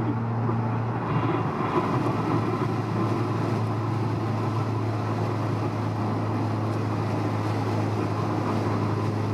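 Steady in-cabin drone of a Honda S2000's four-cylinder engine and tyre/road noise while cruising at a constant speed on the expressway.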